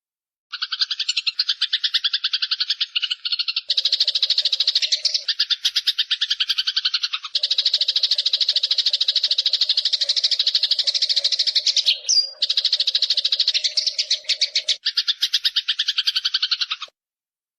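Rapid buzzing trill of an animal call played as a tutor recording for songbirds, repeated in long phrases broken by brief pauses, starting about half a second in and stopping shortly before the end.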